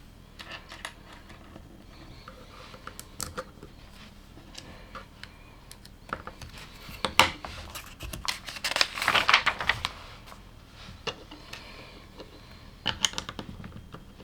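LEGO plastic pieces being handled and snapped together: scattered sharp clicks and taps. A longer stretch of rattling and rustling comes about nine seconds in.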